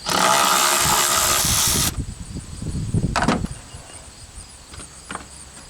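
A handheld power tool, such as a cordless drill or ratchet, runs for about two seconds and cuts off sharply, most likely taking out a bolt of the truck's air intake. It is followed by a couple of clicks of parts being handled.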